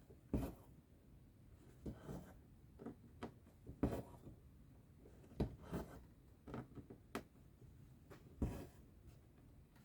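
Needle and thread being pulled through cross-stitch fabric: about a dozen short, soft strokes at an uneven pace, some drawn out briefly as the thread slides through.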